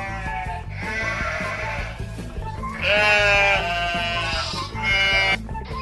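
Sheep bleating repeatedly, several wavering calls in a row, over background music.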